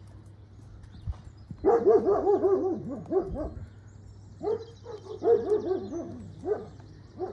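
A dog barking in quick runs of short barks. One run starts about two seconds in, and more come from about four and a half seconds on.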